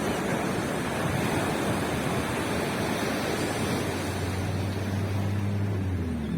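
Surf washing on a beach, a dense steady rush of breaking and receding waves. About four seconds in, a low steady engine hum joins.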